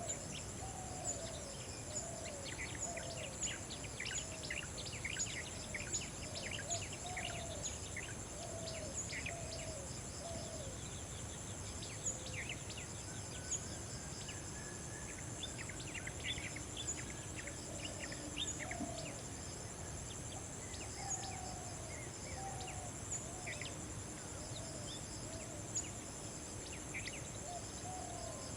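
Outdoor chorus of many small birds giving short, thin chirps, over a steady high-pitched insect trill. A lower, curved call repeats about once a second throughout.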